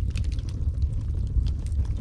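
Wood fire crackling: frequent small sharp pops and snaps over a steady low rumble.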